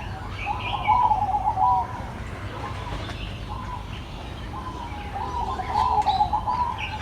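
Pigeon cooing in two bouts, the first about half a second in and the second near the end, with small birds chirping now and then.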